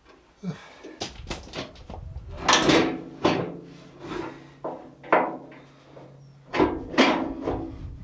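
A run of clunks, knocks and scrapes from parts being handled and fitted by hand, about a dozen in all, the loudest about two and a half and seven seconds in.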